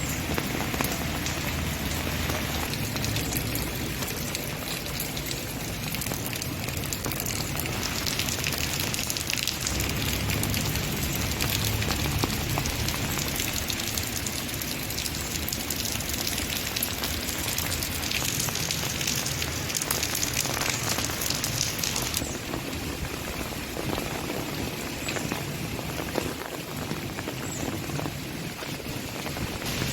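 Steady rain falling, a dense noise of countless small drop hits.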